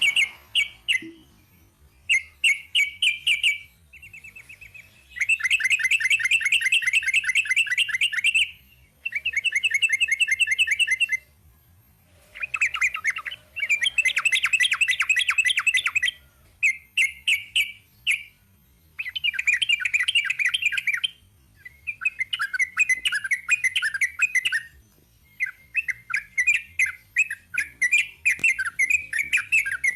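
Yellow-vented bulbul singing: loud phrases of rapid chattering, warbling notes, some drawn out into quick trills a few seconds long, separated by short pauses.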